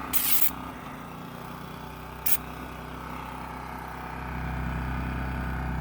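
A few short scraping bursts, then a steady low engine hum that grows louder about four seconds in: a motor vehicle running.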